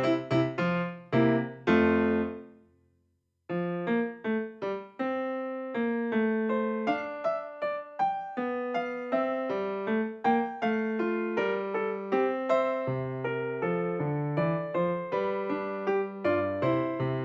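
Background piano music: one piece fades out about two seconds in, and after a short silence another gentle piano piece starts with a steady run of single notes.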